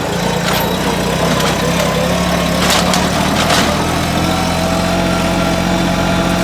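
Engine of a machine carrying freight boxes running steadily as it is driven in a low gear, with a few sharp clicks or knocks about a third and halfway through.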